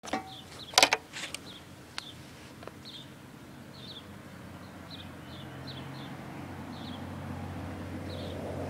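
A small bird chirping repeatedly, short high falling chirps about once a second, over outdoor ambience. A few sharp clicks in the first two seconds, and a low hum slowly building louder in the second half.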